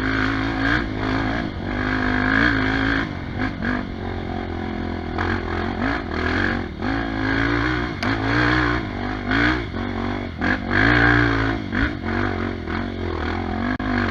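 Trail motorcycle engine revving up and down over and over as the throttle is worked, with scattered knocks and clatter.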